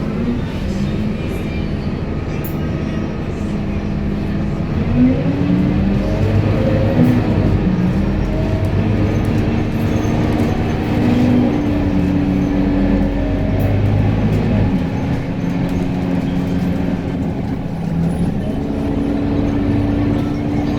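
A vehicle running: a steady low hum with humming tones that hold and then shift up and down in pitch.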